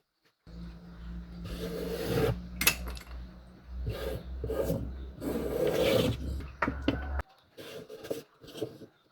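Tool scraping across wood in three long strokes, over a steady low hum that stops suddenly about seven seconds in, followed by a few short scrapes.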